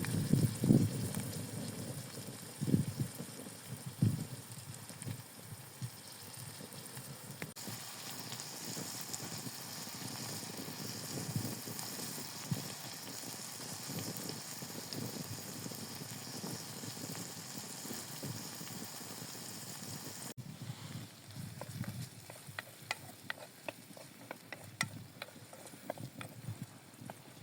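Food sizzling in a frying pan, a steady hiss, with a few low knocks in the first seconds and light crackles and ticks in the last several seconds.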